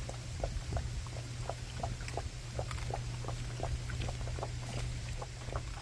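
Anatolian Shepherd dogs chewing bone-in chicken legs: a steady run of sharp bone crunches and cracks, about three a second, over a low, steady rumble of wind.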